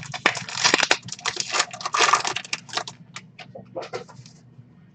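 Foil trading-card pack wrapper crinkling and tearing as a pack is opened, a dense crackle for the first couple of seconds, then scattered light clicks and rustles as the cards are handled.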